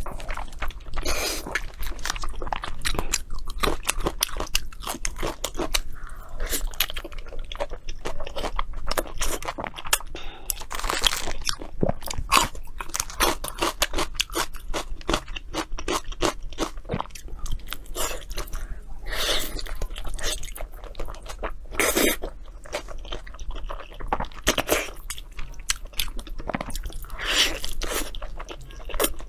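Close-miked biting and chewing of glazed roast meat: a steady run of crackly chewing noises, with a few louder bites along the way.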